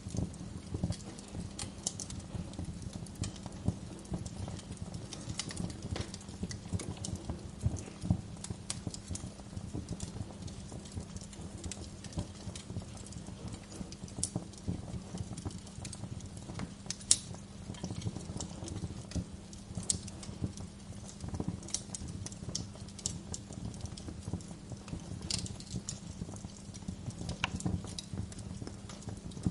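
Wood fire in a fireplace crackling, a low rumble of flame under frequent sharp pops and snaps; the loudest pop comes a little past halfway.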